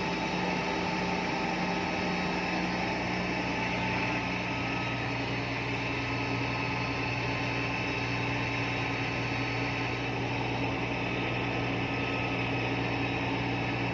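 Epiroc DM45 drill rig's diesel engine running steadily, with a steady hum; its note shifts slightly about three seconds in.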